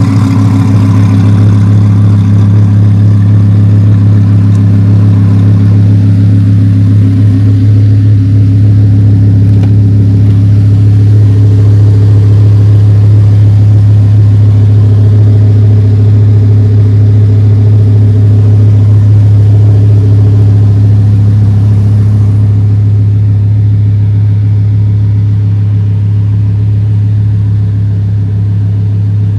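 Twin-turbo Audi R8's 5.2-litre V10 running steadily at a constant low pitch through a titanium X-pipe exhaust, with no revving. It gets slightly quieter over the last few seconds.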